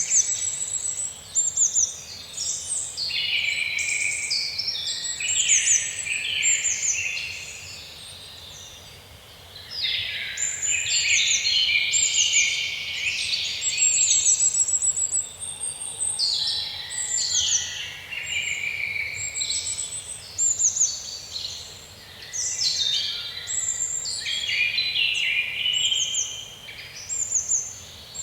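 Woodland songbirds singing in a dense chorus, several high songs of quick repeated notes overlapping, with a short lull about eight seconds in.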